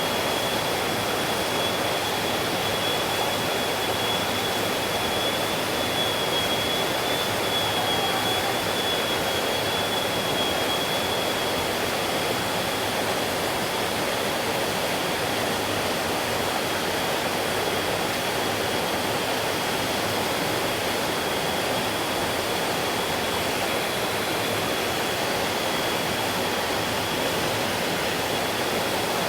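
Mountain stream rushing steadily over rocks, with a thin steady high-pitched tone running over the water.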